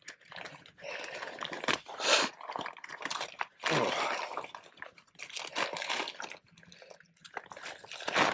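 Crinkling and rustling of a new inflatable sleeping pad and its packaging being handled and unrolled, in irregular bursts with short pauses.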